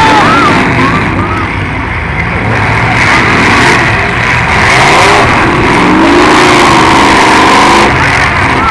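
Several demolition-derby cars' engines revving hard together, loud and continuous, their pitch rising and falling over and over.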